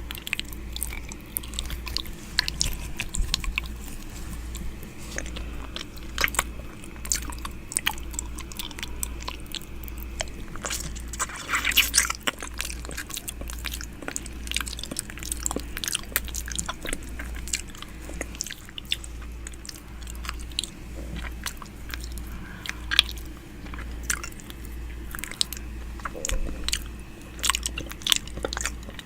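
ASMR 'ear eating': wet close-up mouth sounds right against the microphone, irregular mouth clicks, lip smacks and nibbling, with no talking.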